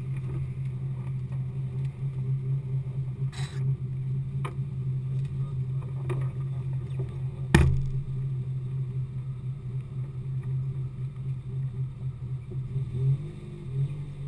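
Car engine running at steady revs with a few sharp knocks, the loudest about halfway through. Near the end the engine pitch rises and falls as the revs change.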